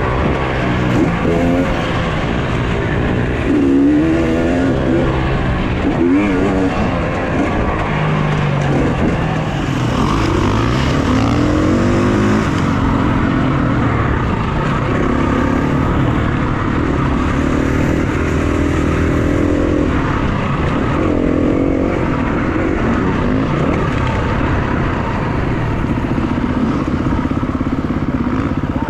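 Off-road motorcycle engines revving, the pitch rising and falling over and over as the bikes accelerate and back off.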